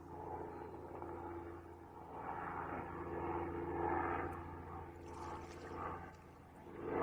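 Helicopter flying overhead: a steady, low engine and rotor drone that grows louder toward the middle and fades a little near the end.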